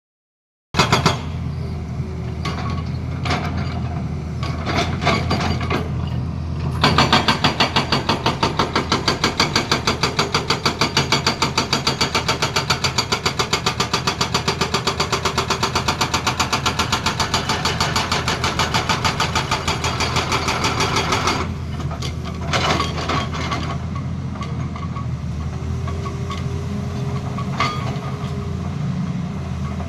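Tata Hitachi excavator's diesel engine running steadily while its hydraulic breaker hammers with rapid, evenly spaced blows for about fifteen seconds in the middle, with scattered knocks before and after.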